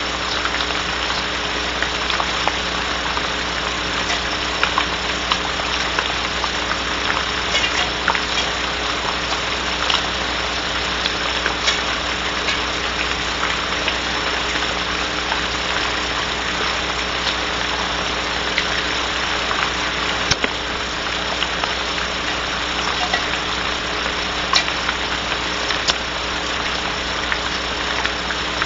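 Steady hiss of rain on a barn owl nest box, heard through the nest-cam microphone over a constant electrical hum, with scattered small ticks.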